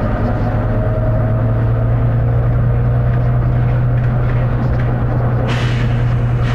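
Volvo B9TL double-decker bus's diesel engine running with a steady low drone. About five and a half seconds in comes a short burst of hiss, typical of the bus's compressed-air system venting.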